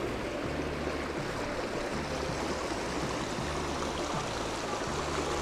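Brook water rushing steadily, with a low hum beneath it that pulses on and off about once a second.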